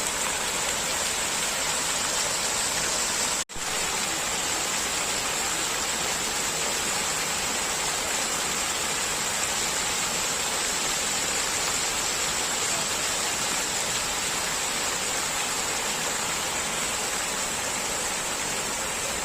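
Waterfall: a steady roar of rushing, falling water, broken once by a momentary gap about three and a half seconds in.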